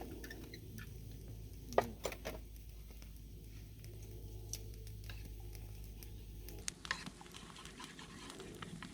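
A few sharp clicks and light knocks, with the loudest about two seconds in and a small cluster near the end. Under them runs a low steady hum that stops about seven seconds in.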